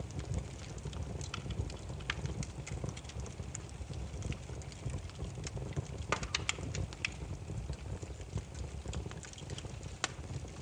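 Firewood burning and crackling: irregular sharp pops and snaps over a low steady rumble of the flames. A quick cluster of louder pops comes about six seconds in, and another single loud pop near the end.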